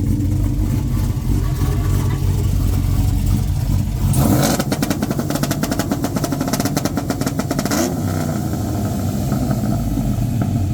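Engine fitted with a two-step launch-control rev limiter: it idles, then about four seconds in is held on the limiter for roughly three and a half seconds, giving a rapid stutter of loud exhaust pops and crackles, and then drops back to idle.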